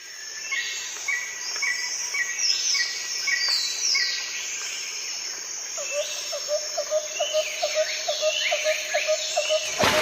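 Several songbirds singing and chirping together, with high sweeping whistles. From about the middle a lower note repeats about three times a second.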